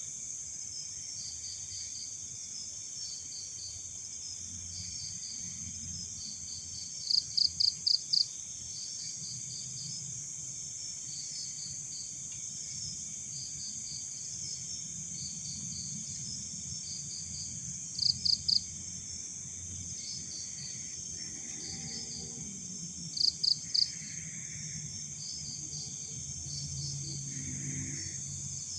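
Night insect chorus: crickets chirping in short pulsed groups over a steady high-pitched hiss, with three louder close bursts of four or five quick chirps.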